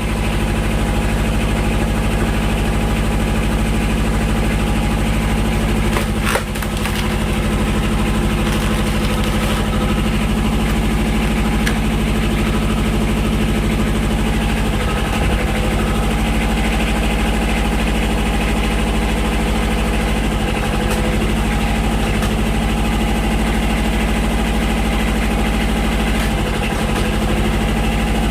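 Tractor engine running steadily, driving the hydraulics of a tractor-mounted log splitter. A single sharp click about six seconds in.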